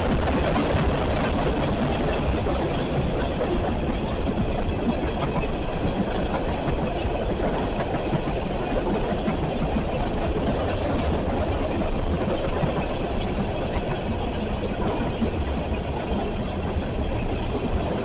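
CSX freight train rolling past a level crossing: a steady, unbroken rumble of the passing cars.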